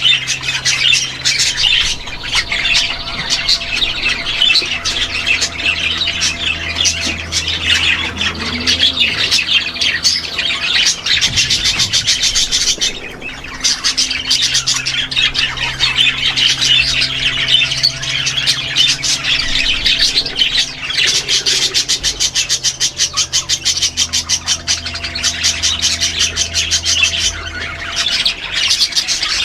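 A flock of aviary birds, small parrots such as lovebirds, chattering and squawking in a dense, continuous din that pauses briefly about halfway through.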